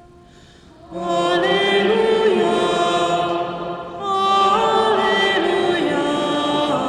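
Sung liturgical chant of the Gospel acclamation before the Gospel at Mass. It comes in two phrases: the first begins about a second in and the second about four seconds in.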